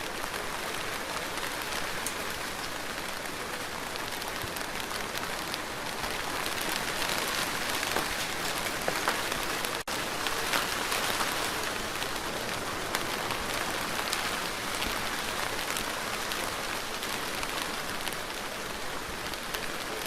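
Steady rain falling, with a dense patter of individual drops, growing a little heavier in the middle and cutting out for an instant about ten seconds in.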